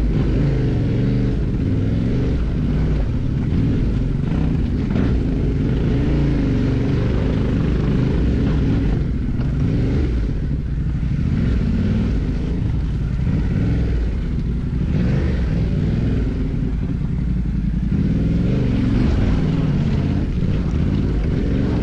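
Motorcycle engine running under constantly changing throttle while riding off-road, its pitch rising and falling.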